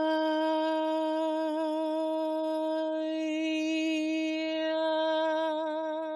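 A woman's voice holding one long, steady sung tone with a slight waver, given as a light-language vocal demonstration. The vowel shifts about halfway through, and the tone fades out at the end.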